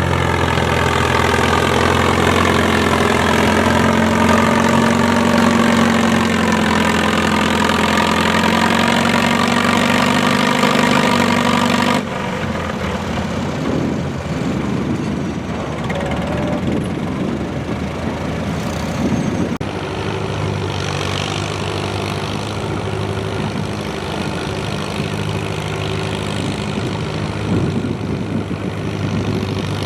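Antique pulling tractor's engine running loud and steady, its pitch rising slightly and then holding. About twelve seconds in it cuts off abruptly and gives way to a quieter, rougher engine sound that runs unevenly.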